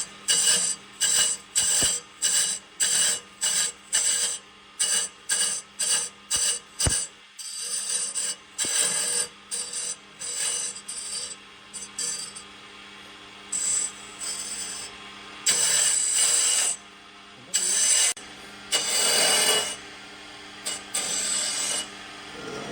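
A hand tool scraping wood in repeated strokes, about two a second for the first several seconds, then slower, longer strokes of about a second each in the second half.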